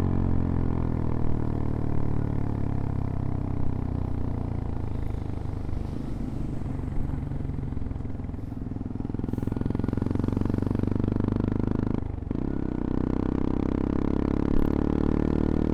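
CFMoto Papio XO-1 small single-cylinder motorcycle engine on a ride. The engine note sinks as the bike slows, then rises again under throttle. It drops out briefly about twelve seconds in, as in a gear change, and then holds a steady higher note.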